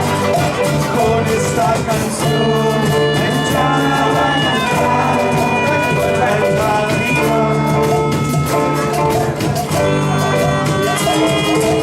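Live band playing a song with a steady bass line and drums, and long held high melody notes over them.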